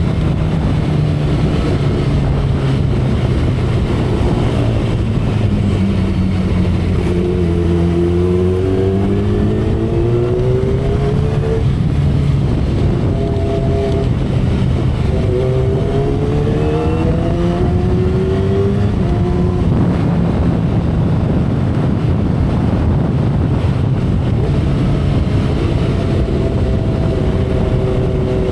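2012 Kawasaki Ninja ZX-10R inline-four engine and exhaust running at expressway speed under steady wind and road noise. The engine note climbs in pitch twice, about eight seconds in and again around fifteen seconds, and each rise breaks off and drops.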